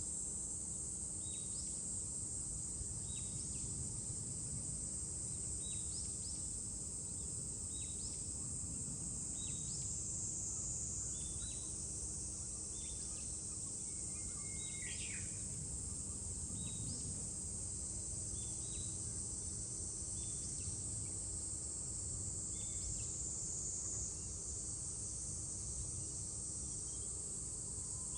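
Cicadas in a steady high-pitched drone, with a bird giving short calls about every second or two over a low rumble.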